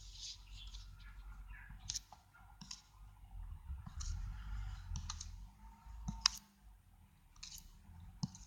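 Irregular light clicks and taps, a few seconds apart, with short scratchy rustles between them.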